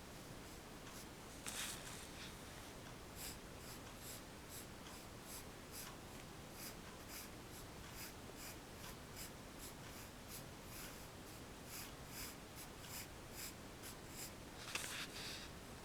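Pencil scratching on paper: a longer stroke, then a steady run of short, quick strokes at about three a second, then another longer stroke near the end.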